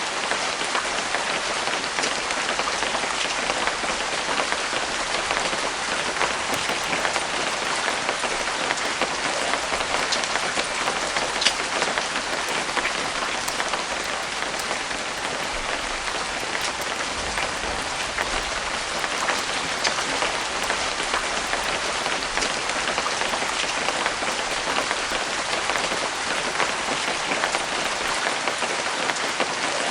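Steady light rain falling, with the sharp hits of individual drops scattered through it.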